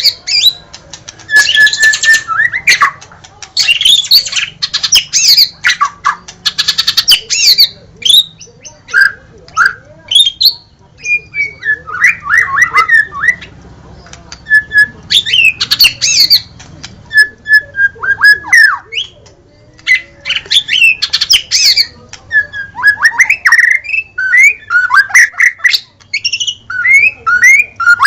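White-rumped shama (murai batu) singing full song: bursts of rapid, varied whistled and chattering phrases, each a second or two long, broken by short pauses.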